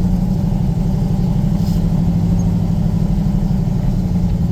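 Turbocharged LS V8 in an OBS Chevy/GMC single-cab truck running steadily at low speed, with a deep, even engine note that neither rises nor falls.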